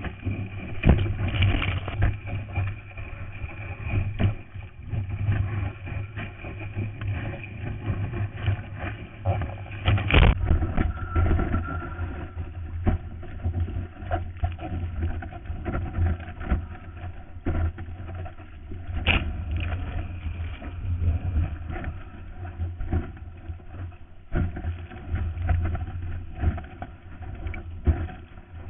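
Seawater sloshing and splashing around a surfboard, heard muffled through a GoPro Hero's waterproof housing, with low rumbling water noise throughout. Two louder splashes come about ten seconds in and again a little before twenty seconds.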